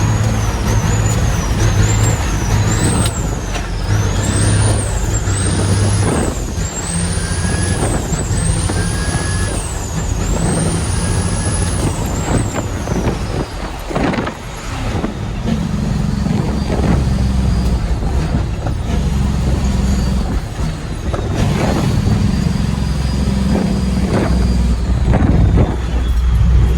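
Heavy diesel dump truck running, its engine note shifting as it pulls. A high turbo whistle rises and drops again and again through the first half.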